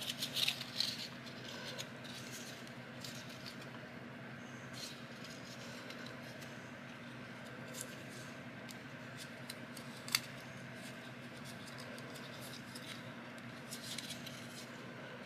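Faint crinkling and small clicks of a paper strip being folded and creased by hand, with a sharper click about ten seconds in, over a steady low hum.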